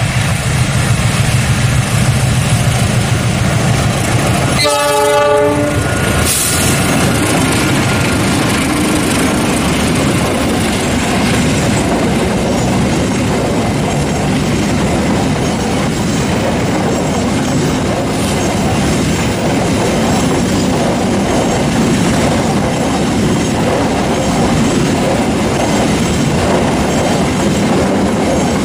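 Diesel locomotive hauling a freight train past, its engine running and the wheels clattering over the rails. A short horn blast sounds about five seconds in, then the wagons keep up a long, steady rumble.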